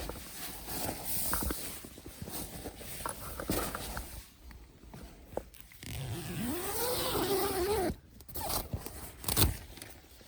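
A zipper being pulled, a smooth rasp that rises and falls in pitch for about two seconds, among rustling, handling clicks and one sharp click near the end.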